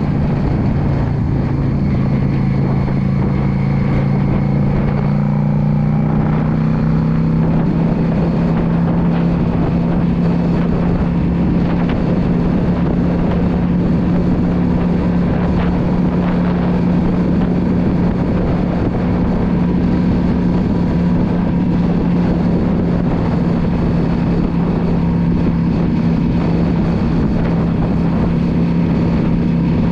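Yamaha V Star 650's air-cooled V-twin engine running under way at a steady cruise. The engine note rises a little over the first several seconds, then holds steady.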